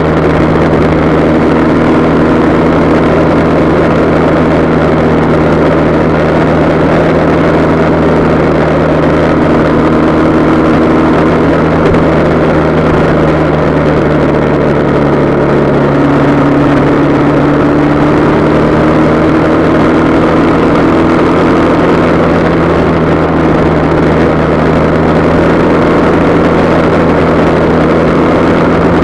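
Motorcycle engine running steadily at cruising speed, heard from a camera mounted on the bike itself, over a constant rush of wind and road noise. Just past halfway one tone in the engine note steps up and rises slowly for several seconds.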